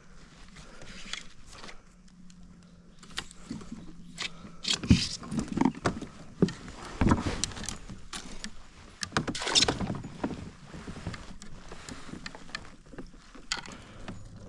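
Irregular knocks, clunks and splashy rustles from a fishing kayak and its gear being handled on the water, loudest about five, seven and nine and a half seconds in.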